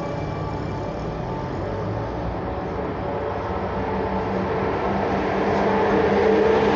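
A pair of EU07 electric locomotives hauling a container train approaching. A steady drone with a low hum grows louder through the second half.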